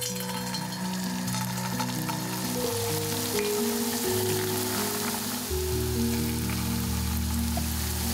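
Food frying in hot oil in a pan: a steady sizzle with small pops, starting suddenly. Background music with held notes plays underneath.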